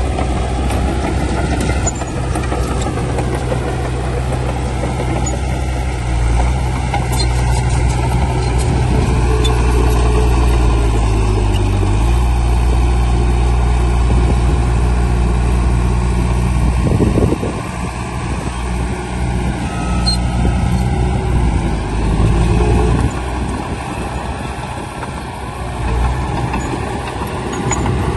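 Heavy diesel earthmoving machinery running with a steady, low engine drone. Partway through, the engine note shifts, and later the level drops back somewhat.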